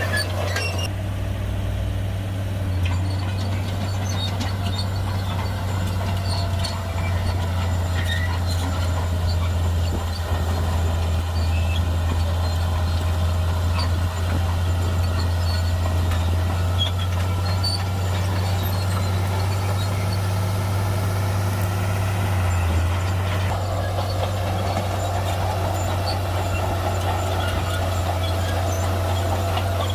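Shantui bulldozer's diesel engine running steadily with a deep, even drone. A higher whine grows louder over the last few seconds.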